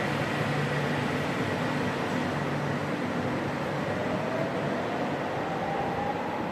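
Stuttgart Stadtbahn light-rail train running with a steady hum, its motor whine rising in pitch from about halfway through as it picks up speed.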